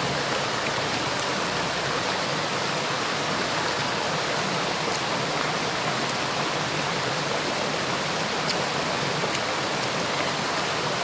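Waterfall water rushing over rocks into a stream: a steady, even rush.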